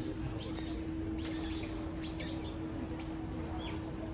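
Birds calling outdoors, short high chirps repeating about once a second. A steady low hum and general background noise run underneath.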